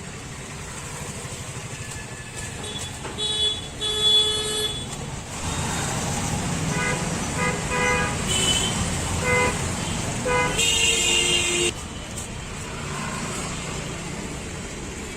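Road traffic passing a street stall, with vehicle horns honking: one horn about three seconds in, a quick run of short toots in the middle, and a longer horn blast near the end.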